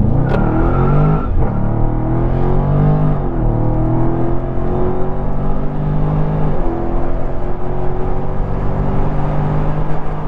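2020 Dodge Charger Scat Pack's 6.4-litre V8 at full throttle, accelerating hard from a stop. Its pitch climbs, then drops back at each of three upshifts, about one, three and six and a half seconds in.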